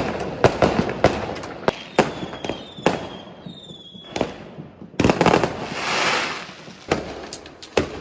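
New Year's fireworks going off all around: many sharp bangs in quick, irregular succession, with a few whistling tones a couple of seconds in and a spell of hissing crackle around the middle.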